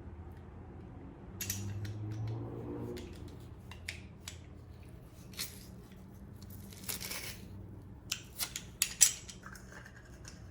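Garlic being prepared and added to a bowl: scattered light clicks and scrapes of metal kitchen utensils, with a cluster of sharper ticks near the end.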